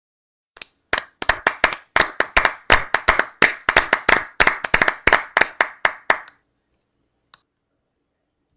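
Hands clapping in a steady run of about two dozen claps, about four a second, stopping after some six seconds; one faint tap follows.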